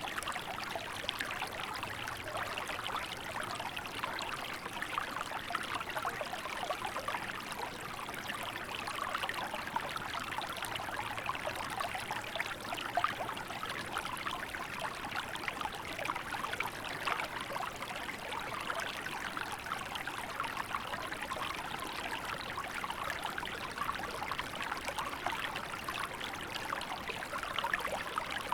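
Small river flowing steadily over stones, a continuous babbling and trickling of running water.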